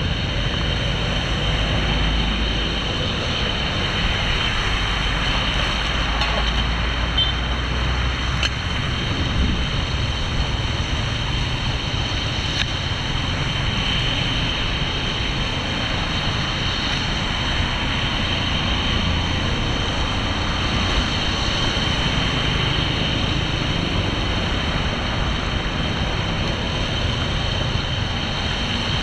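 Steady rush of floodwater draining, with a low rumble underneath.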